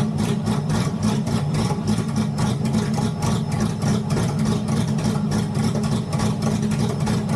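Turbocharged Ford flathead V8 idling steadily with an even, pulsing exhaust beat. The ignition timing has practically no advance, firing at top dead center.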